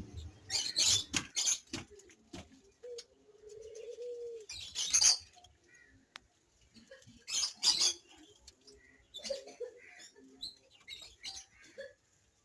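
Ringneck birds calling: several loud, harsh calls, some in close pairs, and one low, drawn-out coo about three to four and a half seconds in.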